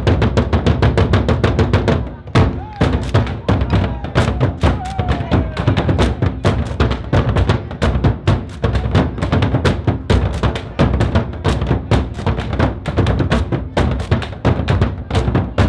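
Drums beating a fast, steady rhythm with heavy bass-drum strokes, with a short break about two seconds in before the beat picks up again.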